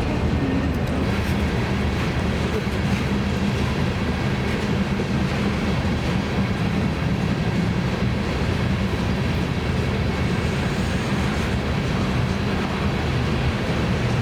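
BNSF freight train rolling past, a steady rumble of steel wheels on rail with faint clicks over the rail joints.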